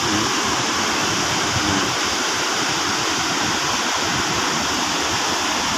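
Waterfall crashing in a loud, steady rush of water.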